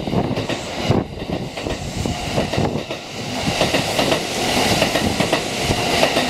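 Kintetsu 80000 series Hinotori limited express passing through on the adjacent track: a rapid clatter of wheels over the rails over a rush of noise, which dips about three seconds in and then grows louder again.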